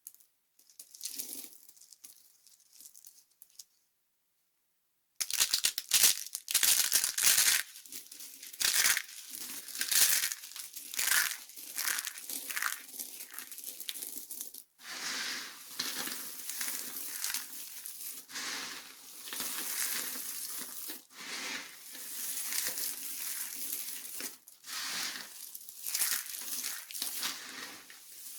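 Dry soap being crushed and crumbled by hand: dense crackling and crunching. The sound is faint at first, drops to dead silence about four seconds in, then comes back loud and busy from about five seconds on.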